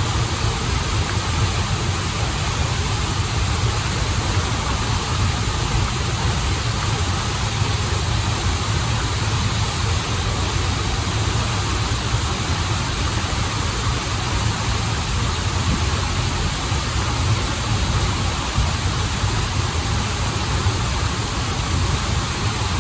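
Waterfall and stream water rushing steadily, with a deep low rumble under an even hiss of falling water.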